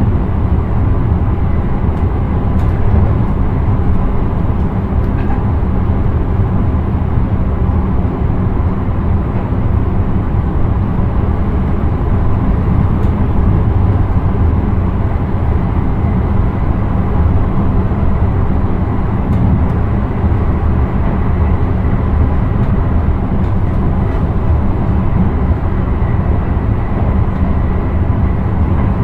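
Intercity train running at speed, heard from the driver's cab: a steady low rumble of wheels on the track, with a faint steady high whine and a few light ticks.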